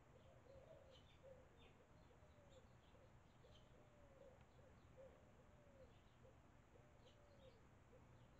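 Faint birdsong: a steady run of low, arching notes, about two a second, with short high chirps scattered among them.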